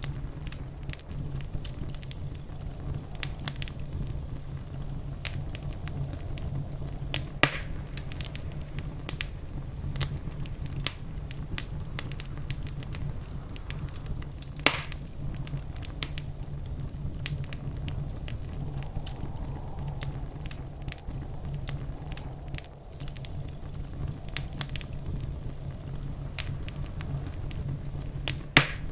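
Wood fire burning in a fireplace: a steady low rumble with scattered crackles and a few louder pops.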